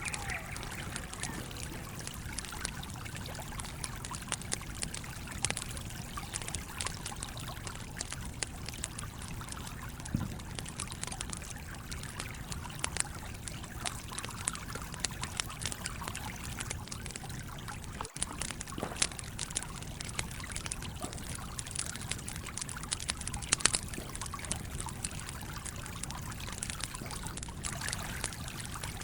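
Campfire crackling with scattered sharp pops over the steady rush of a flowing stream.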